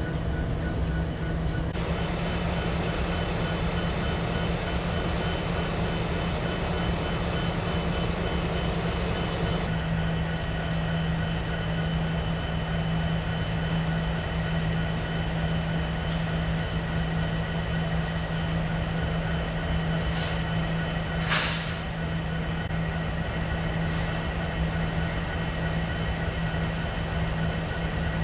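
BNSF freight train's diesel locomotive running steadily with a constant low drone, and a brief hiss about three-quarters of the way through.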